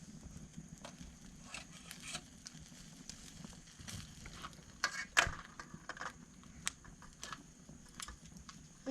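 Campfire wood and tongs being handled, giving scattered light clacks and knocks, the loudest pair about five seconds in.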